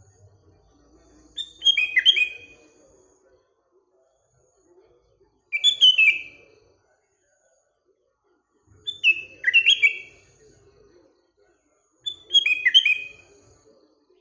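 Sooty-headed bulbul (kutilang) singing four short phrases, each a quick run of falling notes, about every three to four seconds.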